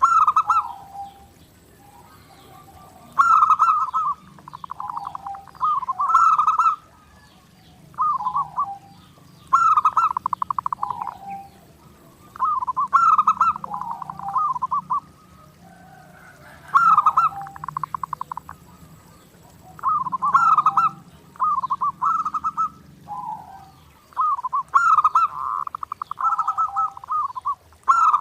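Zebra dove (perkutut) cooing over and over, each phrase a quick rolling run of soft notes repeated every two to three seconds, with thin high chirps over some phrases.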